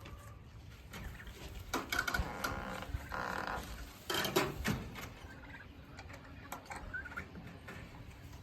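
Poultry calling in several short bursts, loudest about two, three and four seconds in.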